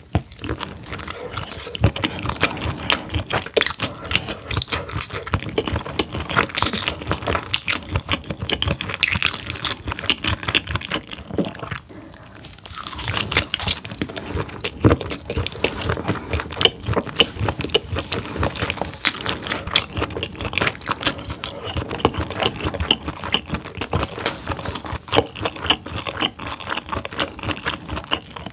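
Close-miked chewing of a whole steamed squid: a dense, irregular run of wet clicks and smacks from biting and chewing the squid's rubbery flesh, with a short lull about twelve seconds in.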